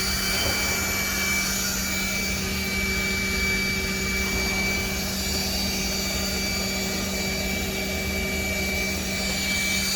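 Steady machine drone: a rushing hiss with a low hum and several high, steady whining tones.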